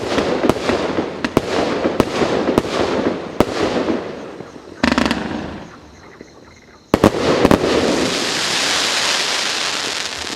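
'Star Rain' consumer firework battery (cake) firing shot after shot, about two a second, each with a sharp pop and a crackling tail. After a short lull, two sharp bangs come about seven seconds in, followed by a long dense hiss and crackle that slowly fades.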